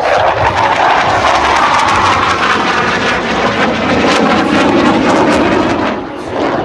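CF-18 Hornet fighter jet's twin turbofan engines running loud and crackling in a low pass, the pitch of the jet noise sliding lower midway through as it goes by.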